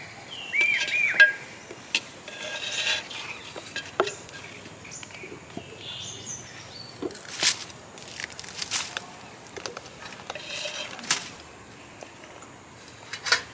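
A bird calls twice with short arching whistles near the start. Scattered clicks and rustles of people handling things around them follow.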